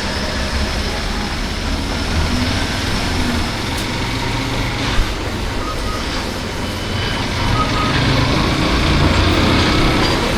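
Motorcycle riding through traffic: a steady engine rumble under wind rush on the helmet microphone, with a sharp click about five seconds in and a few short high beeps near the middle.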